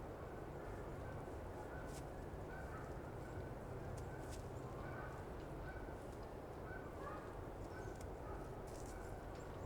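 Winter forest ambience: a steady low rumble of outdoor noise with short, faint chirps repeating every half second or so, and a few sharp clicks or snaps.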